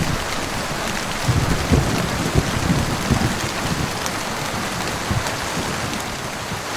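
Heavy rain falling steadily in a dense hiss, with irregular short low thuds underneath.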